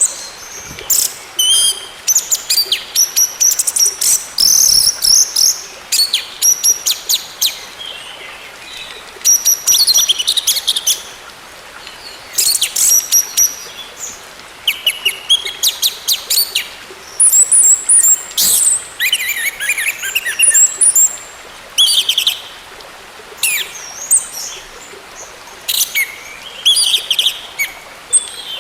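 Orange-headed thrush song: a string of short phrases of rapid, high, varied notes, with brief pauses between them.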